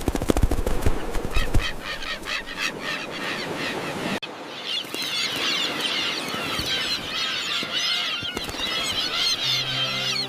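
A colony of common terns calling all at once, with many harsh overlapping calls. An abrupt cut about four seconds in switches to a denser, higher chatter of calls, and music comes in faintly near the end.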